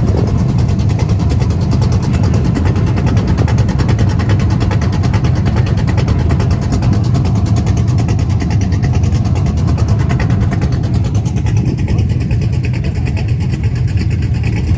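A car engine running steadily at close range.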